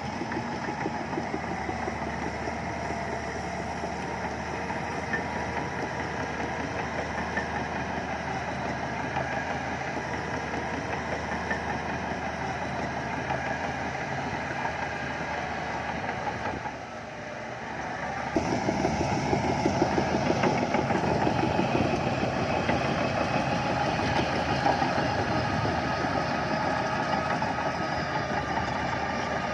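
Diesel engine of a SHANTUI crawler bulldozer running steadily, dipping briefly a little past halfway and then running louder through the end.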